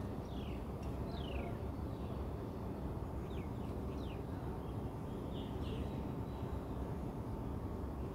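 Several short, falling bird chirps over a steady low background rumble.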